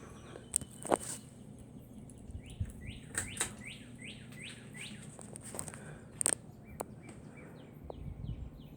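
Small birds chirping: a run of quick, repeated downward-sliding chirps, with a few sharp clicks about a second in and again near six seconds.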